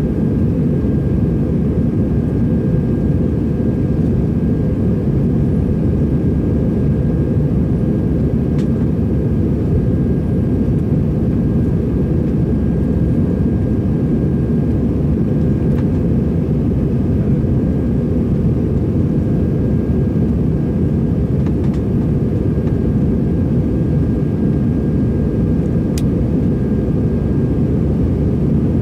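Steady jet engine and airflow noise heard inside the cabin of an Airbus A321-200 in flight, a constant deep rush with a faint steady whine above it. Two faint clicks, one about nine seconds in and one near the end.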